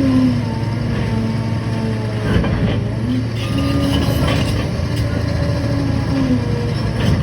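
Liebherr 746 crawler dozer working: steady diesel engine hum with higher whining tones that come and go, and a short clank about two and a half seconds in.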